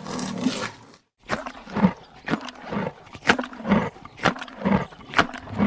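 Rhinoceros calling: one call, a brief silent break about a second in, then a run of short rhythmic grunts at about two a second.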